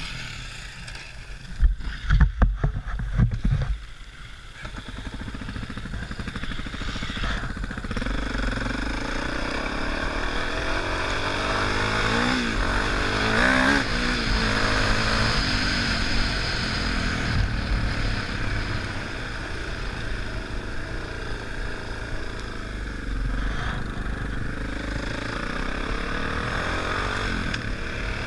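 Trail motorcycle engine running under way, heard from a helmet camera with wind on the microphone; the revs rise and fall several times around the middle. A few loud low thumps come about two to four seconds in.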